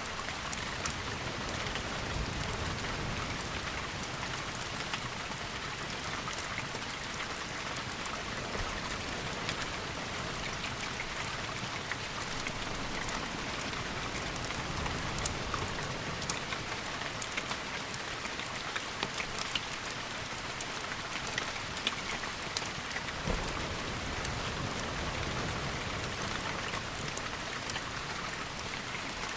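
Steady rain falling, an even hiss peppered with many sharp drip ticks, over a soft low rumble.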